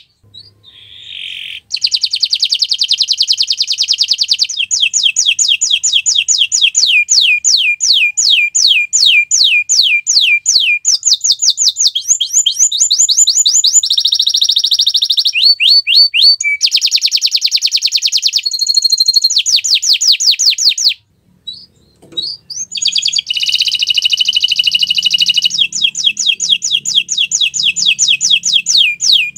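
Domestic canary in full song: long tours of fast, rapidly repeated whistled notes, each trill switching to a new syllable every second or few. The song breaks off briefly just after the start and again about two-thirds of the way through.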